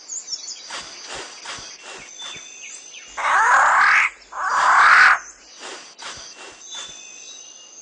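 Riflebird making two loud, harsh rasping sounds, each just under a second long, about three and four and a half seconds in. Behind them is a rainforest background of thin insect tones and high chirping bird notes.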